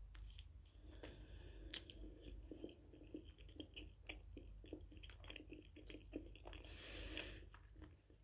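Close, soft chewing of a sugar-coated fried quark ball (Quarkbällchen), with about two or three faint chews a second, and a short breathy hiss about seven seconds in.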